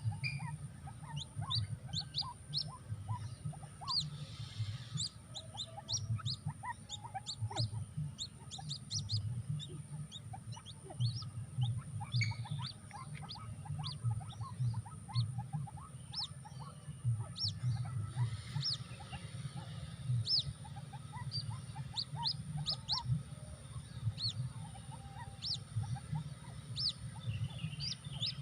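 Birds chirping: a steady stream of short, high chirps with some lower ones mixed in, over a low pulsing hum.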